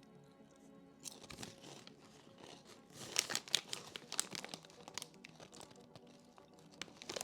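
A crinkly snack bag being handled, crackling in a quick clatter of small sounds that is busiest three to four and a half seconds in, over quiet background music.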